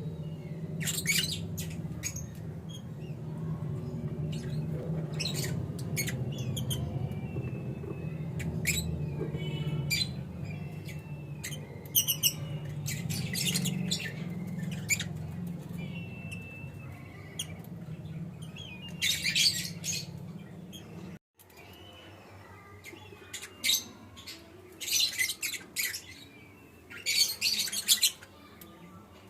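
Lovebird chicks calling in short, raspy squawks and chirps, repeated irregularly, some louder bursts standing out. A low steady hum runs underneath and stops suddenly about two-thirds of the way through.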